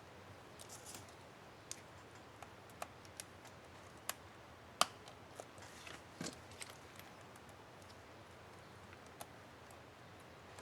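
Faint, scattered small plastic clicks and taps from handling a laptop keyboard's Enter keycap and its clips, the sharpest just under five seconds in.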